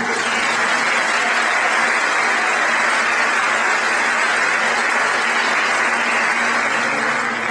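Audience applauding steadily as a song ends, easing off near the end.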